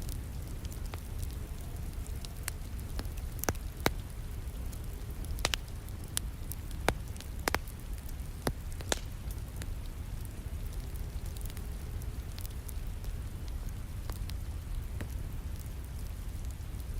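Wood fire crackling, with sharp irregular pops scattered through, most of them in the first half, over the steady hiss of falling rain.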